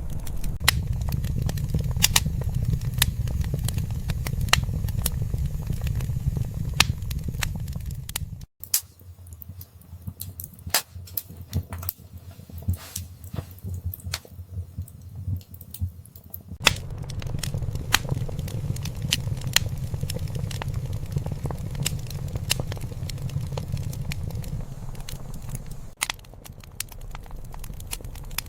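Wood fire in a fireplace crackling, with frequent sharp pops. A low rumble under it drops away about eight seconds in, leaving only the crackles, and returns about halfway through.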